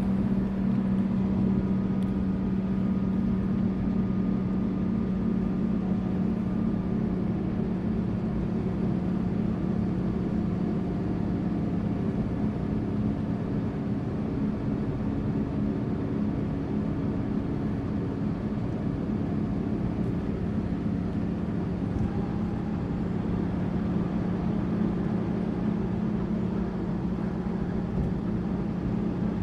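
Tour bus running at a steady pace: engine and road noise make a constant low drone with an even hum throughout.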